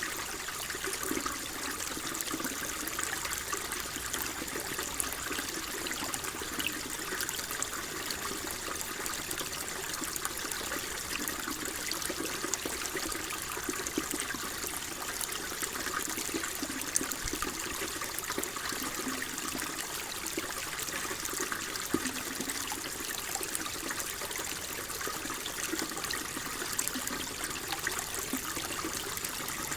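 Water flowing and trickling steadily, with small splashes and bubbling spread through it.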